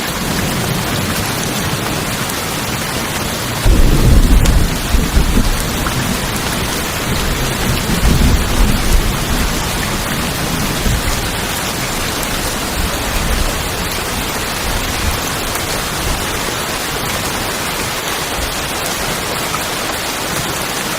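Steady rain drumming on tin roofs, with thunder: a sudden loud low rumble about four seconds in that dies away over a couple of seconds, and a second, weaker rumble about eight seconds in.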